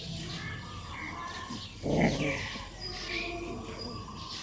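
Animal calls: scattered short high chirps, and one short, loud, low, rough call about two seconds in.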